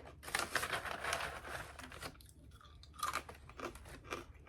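Someone crunching and chewing small dry squares of Catalina Crunch cinnamon toast keto cereal. A dense run of crunching fills the first two seconds, then come several separate crunchy chews.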